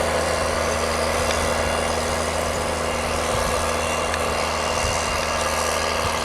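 Case IH Puma 180 tractor's six-cylinder diesel engine running steadily, with an even low drone that neither rises nor falls.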